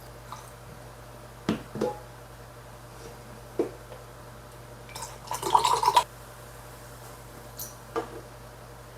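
A drink poured briefly into a glass about halfway through, with a few light clicks and knocks of a glass and bottle before and after: a glass being refilled.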